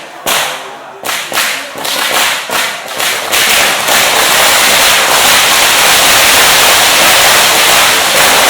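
Firecrackers going off at close range: a few sharp, loud bangs, then bangs coming faster and faster until they merge into a dense, continuous crackle lasting several seconds.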